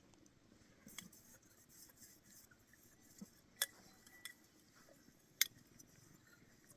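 A few light, sharp clinks, the two loudest in the middle of the stretch, like small hard objects such as dishes or utensils knocking together.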